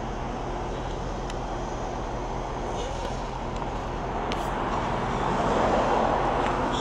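A motor vehicle's engine hums steadily at idle under outdoor traffic noise. A rush of noise swells louder about five seconds in.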